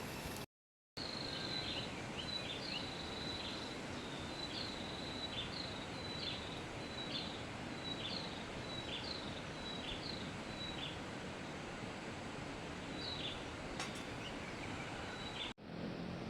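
Outdoor forest ambience: a steady hiss with a high, short chirping call repeated about twice a second, pausing for a couple of seconds before returning near the end.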